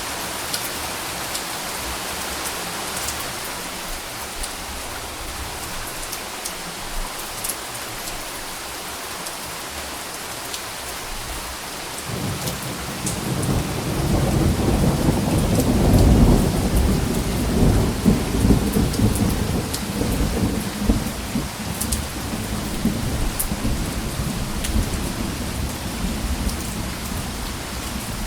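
Steady rain falling, with scattered drop ticks, and a long low roll of thunder that begins about halfway through, swells to its loudest a few seconds later and slowly rumbles away.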